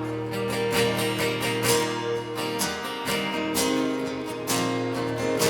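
Acoustic guitars strumming a song, with steady, evenly spaced strokes and ringing chords.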